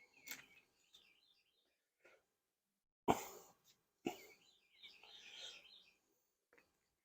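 Birds chirping in the background, with a few short, sudden noises; the two loudest come about three and four seconds in.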